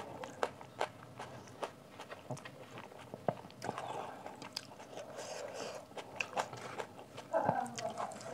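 Chewing a mouthful of rice and besan kadhi, with frequent wet clicks and lip smacks. Fingers squish and mix the rice and curry against a steel plate.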